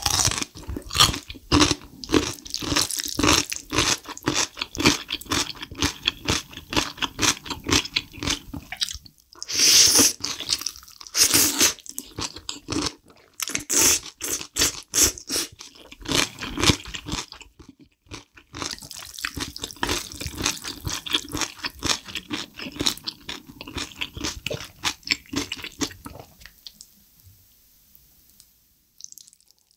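Close-miked eating of spicy black bean sauce noodles with kimchi: wet chewing and slurping in quick, continuous mouth sounds, with a few louder stretches about ten seconds in. The sounds stop for the last few seconds.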